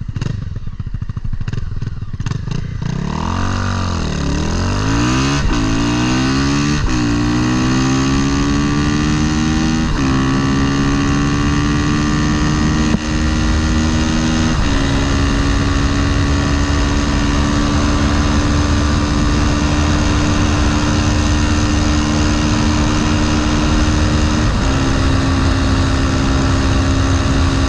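Motorcycle with a swapped-in Honda CBR300R single-cylinder four-stroke engine, accelerating at full throttle from a roll. The pitch climbs in each gear and dips at about four upshifts, each gear held longer than the last, before it settles into a steady high-speed run.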